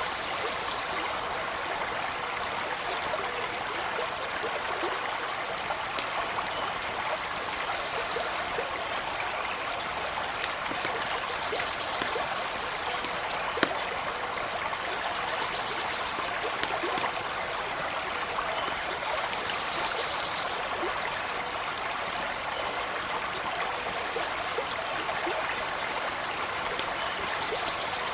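A creek running steadily, with scattered sharp crackles from a small campfire.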